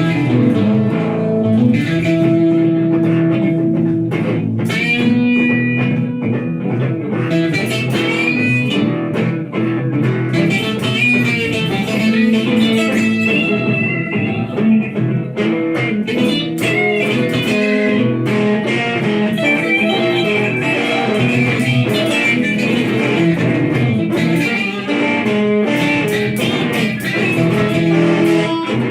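Electric guitars playing improvised blues rock: a lead line of held, singing notes over lower chords.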